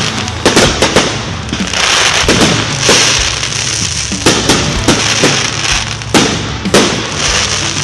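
Aerial fireworks going off in quick succession: many sharp bangs over a continuous crackling hiss, the loudest reports about half a second in and again about six seconds in.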